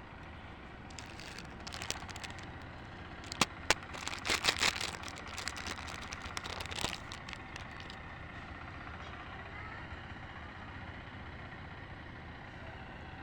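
Wood fire crackling in a fireplace: a flurry of sharp pops and snaps about three to five seconds in, over a steady low rush.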